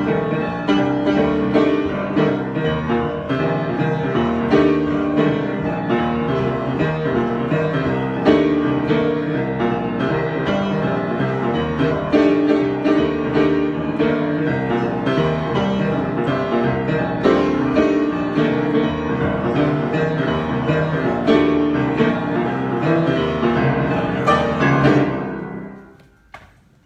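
Solo piano improvisation, dense chords and running notes played without pause; near the end the playing stops and the last notes die away.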